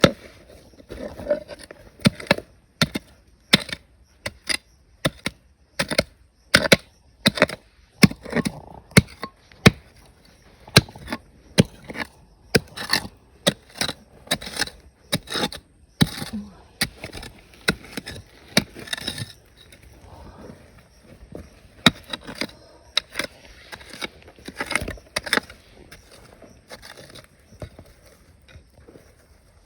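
Hand tool striking rock and gravel again and again, one or two sharp knocks a second, thinning out near the end.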